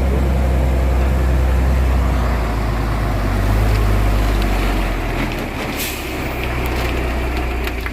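Heavy diesel truck engine pulling up a steep hill, a loud deep drone that eases off about five seconds in. Then comes a short hiss and a few sharp clicks near the end.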